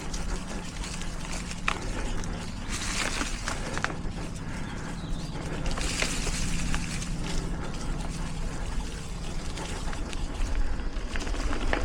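Mountain bike riding singletrack: tyres rolling on dirt with scattered clicks and rattles from the bike, and two short rushes of hiss about three and six seconds in.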